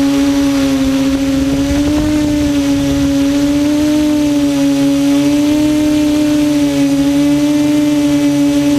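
QAV400 quadcopter's propellers and brushless motors humming steadily in flight, one steady pitch that drifts slightly up and down as the throttle is adjusted.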